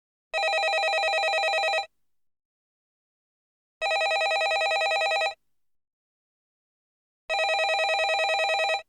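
Landline telephone ringing: three evenly spaced rings, each a trilling bell about a second and a half long, with a pause of about two seconds between them.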